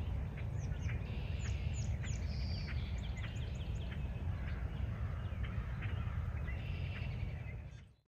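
Birds giving many short, sharp call notes, some falling in pitch, over a steady low rumble of outdoor background noise.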